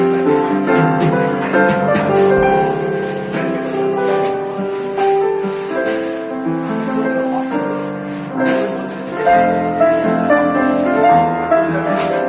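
Live jazz band playing, led by piano chords and melody over light percussion.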